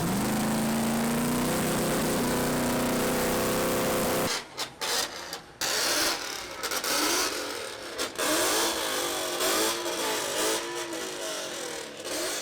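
A car engine revving: it is held high and climbs slowly for about four seconds, then cuts off. Then comes a series of shorter revs that rise and fall.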